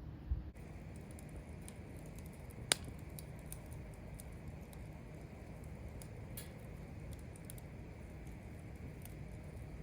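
Small wood fire crackling in a fire pit: scattered faint pops over a steady low hiss, with a sharper crack about three seconds in and another about six seconds in.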